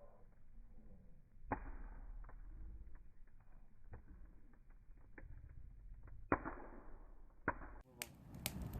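Wood campfire crackling with many irregular sharp pops, and two louder rushing bursts of flame, about a second and a half in and again past six seconds.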